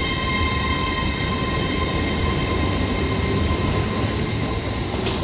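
A train running, a steady rumble with several steady high-pitched whining tones above it. There is a sharp click near the end.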